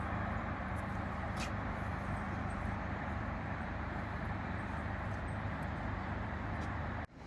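Diesel train running steadily, a low engine hum under a broad rumble, cut off abruptly near the end.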